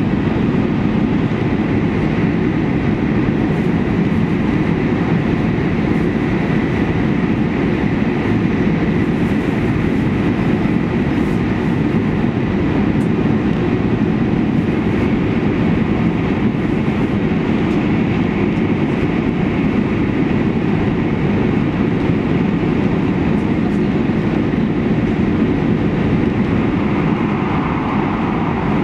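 E2 series Shinkansen train running, heard from inside the passenger car: a steady, unbroken running rumble with a faint high whine over it.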